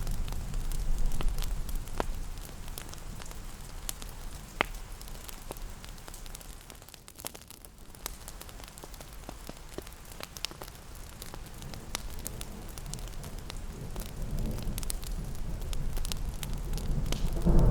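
Steady rain with the crackle of a wood fire: scattered sharp pops over an even patter, and a low rumble that swells near the start and again towards the end.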